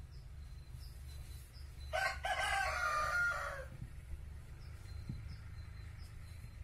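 A rooster crowing once, a single call of about two seconds that drops in pitch at the end, over a steady low hum.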